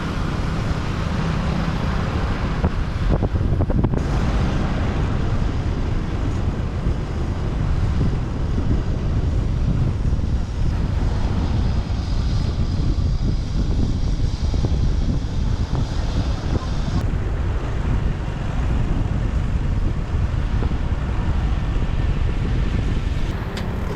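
Wind rushing steadily over the microphone of a moving motorbike, with road and traffic noise underneath.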